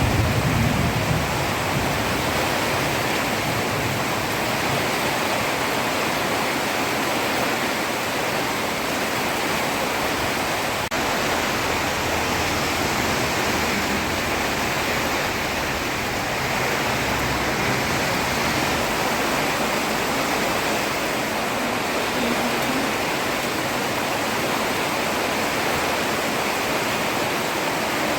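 Heavy rain falling steadily on a road, a dense even hiss. A low rumble of thunder dies away in the first second or so.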